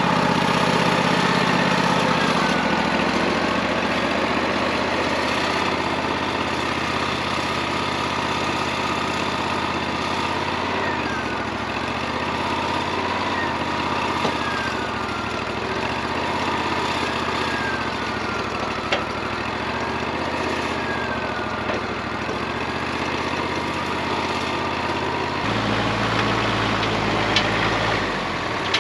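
Wood-Mizer LT40 portable bandsaw sawmill running steadily, its engine hum topped by a whine that wavers up and down. About 25 seconds in the engine note changes, and there are a few sharp clicks near the end.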